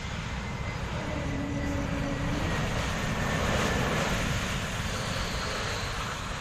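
Jet airliner's engines roaring as the plane passes, swelling to a peak a little past halfway and then fading, with a faint high whine that slowly sinks in pitch.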